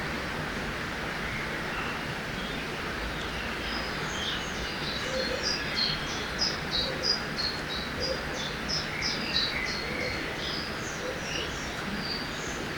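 Steady rush of river water, with a songbird singing a quick series of short, high notes from about four seconds in until near the end.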